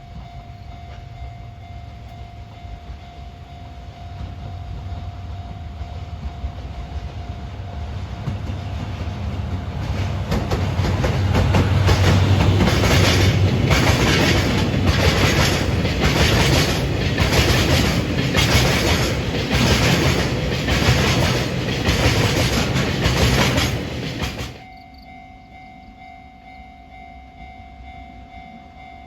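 A JR Freight train passing close by on the line: it builds up, then runs loud with a regular clatter of wheels over the rail joints, and cuts off suddenly near the end.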